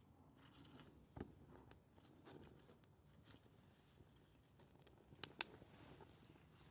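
A few faint, sharp clicks over quiet background: one about a second in and two in quick succession near the end.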